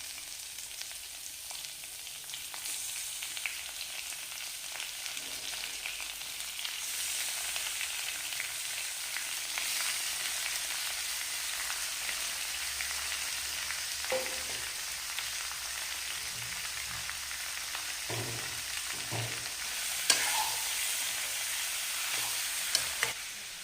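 Chicken pieces frying with onions and spices in oil in a kadai over a lowered gas flame: a steady sizzle that grows louder a few seconds in and again about seven seconds in, with a few knocks of the stirring spoon against the pan in the second half.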